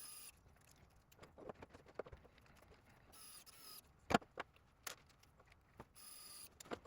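Light clicks and taps of small screws, nuts and a hex key against 3D-printed plastic frame parts during hand assembly, with one sharper knock about four seconds in.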